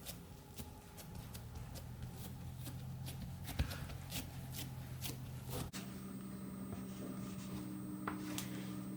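Hands working on a kitchen surface, with light taps and rubbing, about two ticks a second, over a low steady hum that shifts higher about six seconds in.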